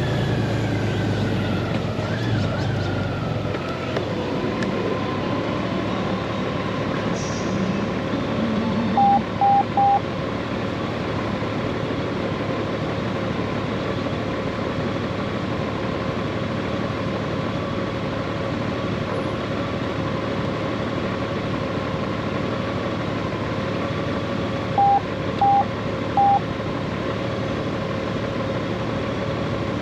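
Steady wind and road noise while riding a Honda Gold Wing DCT motorcycle, with a steady hum underneath; early on the engine pitch falls and its low note fades. Two sets of three short electronic beeps sound, about nine seconds in and again about twenty-five seconds in.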